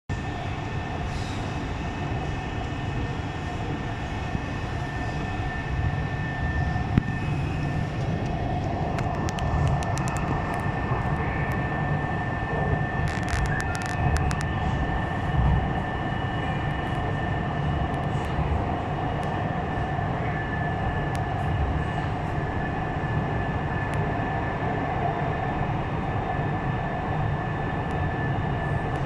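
Metro train running at speed, heard from inside the carriage: a steady rumble of wheels on track under a constant high whine. A run of sharp clicks comes in the middle.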